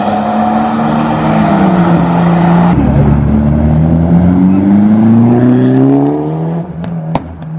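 Audi R8 engine revving hard, dropping in pitch, then accelerating away with a steady rising pitch as it launches, fading out near the end. A sharp click comes near the end.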